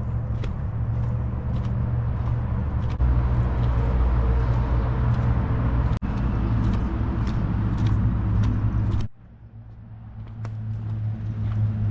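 Car cabin road noise while driving: a steady low rumble with scattered small clicks and knocks. It cuts off abruptly about nine seconds in, then builds back up.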